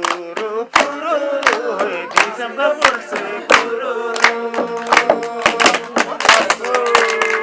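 Voices singing a Jirel selo folk song with long held notes over regular strikes of a damphu frame drum, about one to two beats a second, the beats growing busier near the end.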